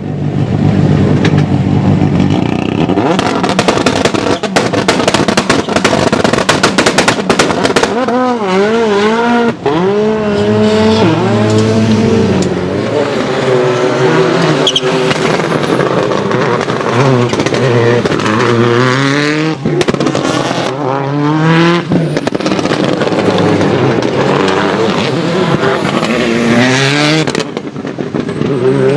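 Skoda Fabia WRC rally car's turbocharged four-cylinder engine at full noise. From about 3 to 8 seconds it sounds a rapid crackle of pops typical of anti-lag, then revs hard, its pitch climbing and dropping again and again as it shifts through the gears.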